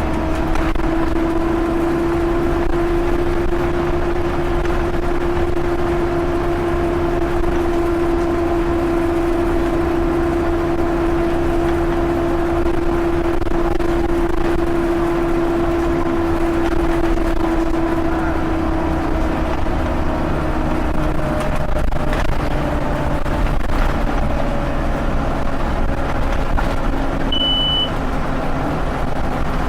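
Scania OmniLink single-deck bus running steadily on the road, its drivetrain giving a constant whine that drops a little in pitch after about twenty seconds. A short high beep sounds near the end.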